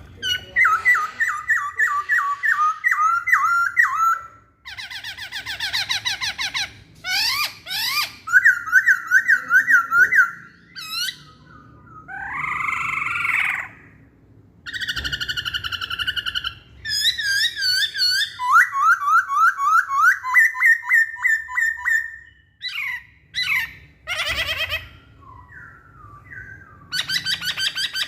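Black-throated laughingthrush singing: loud, varied phrases of rapid repeated whistled notes, with short pauses between phrases.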